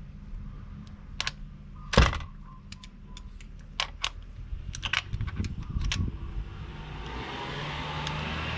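Hand tools clicking and clanking against metal while the oil filter is tightened with a cup-type oil filter wrench on a ratchet: one loud clank about two seconds in, then a run of quick irregular clicks. A steady rustling noise builds near the end.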